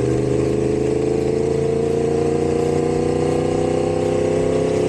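Motorcycle engine running under way at a steady speed, its note rising slightly in pitch over the first couple of seconds and then holding, with a wash of road and wind noise.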